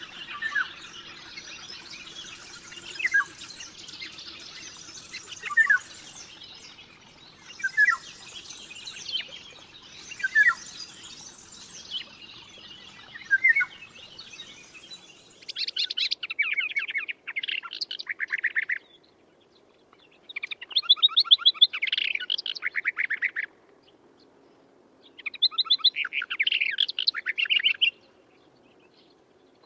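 Birds singing: first one short falling chirp repeated about every two and a half seconds over a steady hiss, then, from about halfway, a different bird's rapid trilled song in loud phrases about three seconds long with short silent pauses between.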